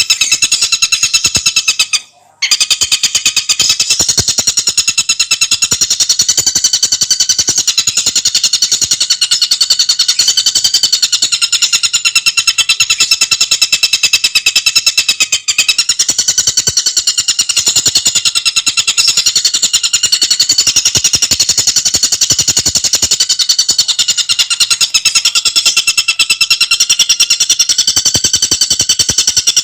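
Tengkek buto bird song: a fast, tightly spaced rattling trill on a steady high pitch, running on without pause except for a short silence about two seconds in.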